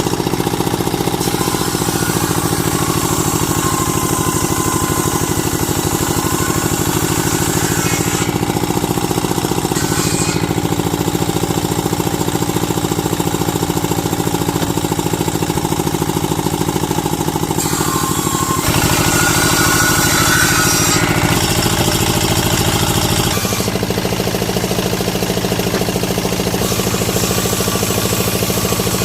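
A motor-driven woodworking machine running steadily with a fast pulsing beat; its pitch and tone shift abruptly about two-thirds of the way in and again a few seconds later.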